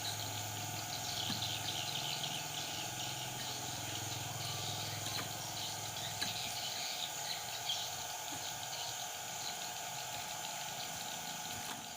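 Yellow-vented bulbuls chattering in quick short calls over a steady insect drone. The chatter thins out about seven seconds in.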